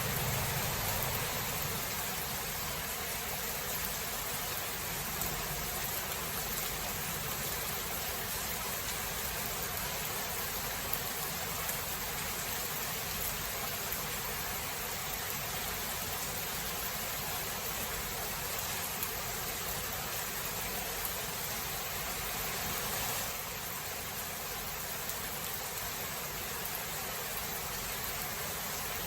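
Steady rain falling in a thunderstorm, an even hiss, with the tail of a low thunder rumble dying away in the first second. The rain drops slightly in level near the end.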